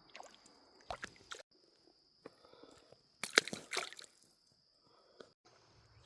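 A few short wet splashes and squelches, the loudest a little past the middle, over a steady high-pitched insect drone that breaks off now and then.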